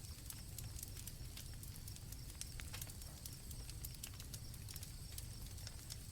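Night-time campfire crackling with frequent irregular pops over a low rumble, and crickets chirping steadily in the background.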